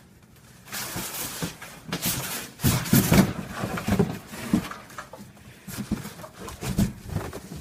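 Cardboard box and foam packing scraping and rustling, with irregular knocks, as a heavy mitre saw is lifted out of its box.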